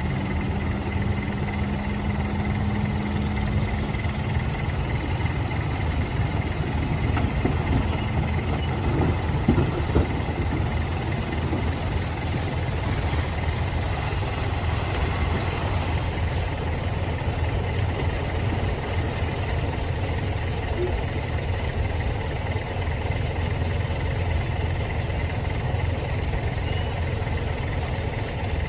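A heavy diesel engine of a truck or bulldozer idling steadily, with a low continuous rumble.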